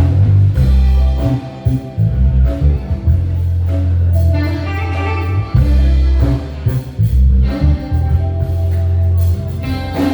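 A live band playing an instrumental passage: electric bass holding heavy low notes under drums, guitar and keyboard.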